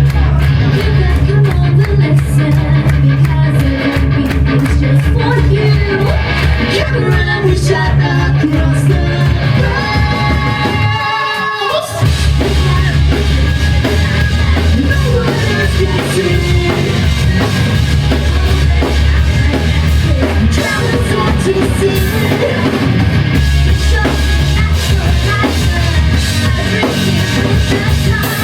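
Live rock band playing loudly: electric guitar, bass and drum kit. About eleven seconds in, the bass and drums cut out for a moment, leaving guitar lines alone, and then the full band crashes back in.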